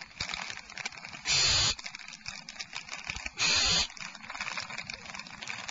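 Barn owl nestlings hissing twice, each hiss about half a second long, over a steady run of small clicks and rustles from prey being handled in the nest cavity.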